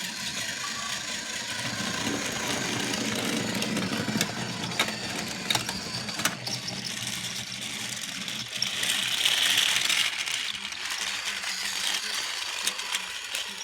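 Battery-powered toy train running on plastic track: a steady small-motor whirr with scattered clicks and clatter, getting louder for a second or two around the middle.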